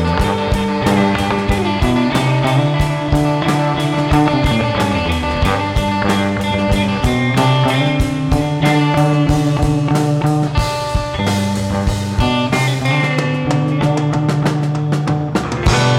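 A rock band playing an instrumental passage with no vocals: guitar over a moving bass line and a steady drum beat.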